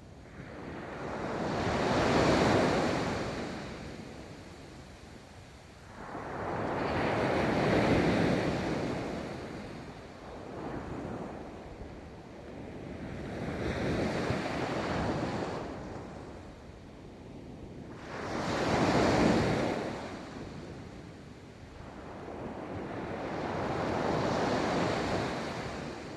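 Ocean waves breaking and washing up a beach, five swells of surf a few seconds apart, each rising to a rush and falling away, with some wind on the microphone.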